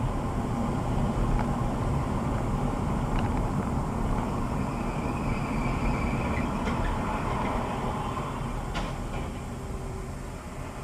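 Steady rumble of a vehicle driving along a road, with a few faint clicks.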